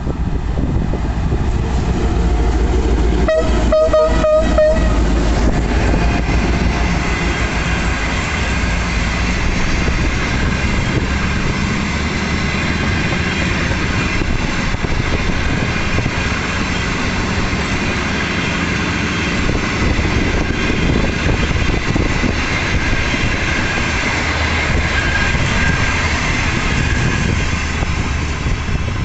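Passenger train passing close by. About three seconds in, the locomotive gives a few short horn toots. After that comes the steady rumble and rattle of the coaches rolling past on the rails.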